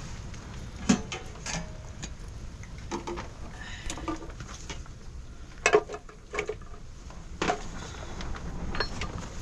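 Irregular light knocks and clatter, the sharpest about a second in and a pair close together near six seconds, over a low background rumble.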